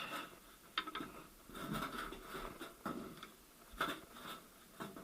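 Faint scattered clicks and light knocks of small parts being handled on a workbench.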